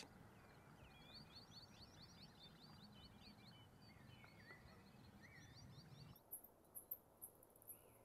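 Faint birdsong of short high chirps over a low, steady outdoor background. About six seconds in the background changes abruptly, and a string of short, sharp high clicks follows at irregular intervals.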